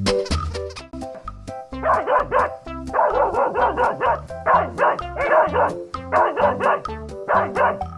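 A dog barking repeatedly, roughly one or two barks a second, over background music.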